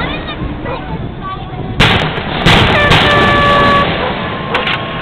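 Fireworks bursting overhead: three loud booms about a second apart in the middle, then a few smaller cracks near the end, with a couple of held tones sounding between them.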